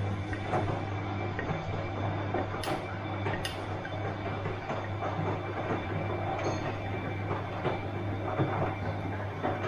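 Bosch washing machine running: a steady low hum under a dense churning noise, with irregular small knocks and clatters.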